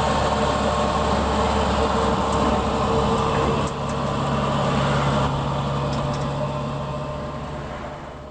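Kubota DC68G combine harvester's diesel engine running steadily, fading out over the last couple of seconds.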